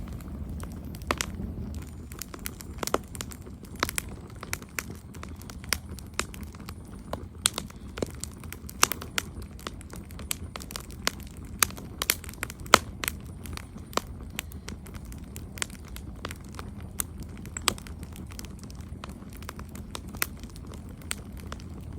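Wood campfire crackling: irregular sharp pops and snaps, a few of them loud, over a low steady rumble of the flames.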